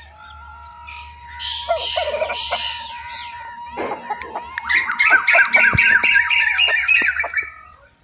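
Birds squawking: two harsh calls, then a fast run of chattering calls lasting about three seconds.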